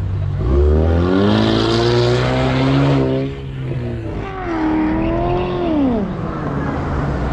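A car engine revving hard twice: the pitch climbs and holds for about two seconds, then drops, climbs again and falls away.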